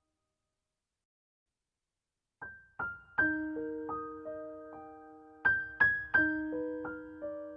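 Background piano music: silence for the first couple of seconds, then a slow, gentle piano melody starts, single struck notes and chords ringing out and fading.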